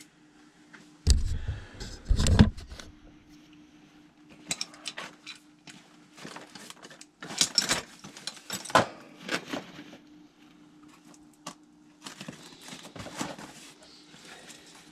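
Metal clinks and rattles of hand tools working on the blower's motor-mount bracket, with two heavy thumps about a second and two seconds in. A faint steady hum runs underneath.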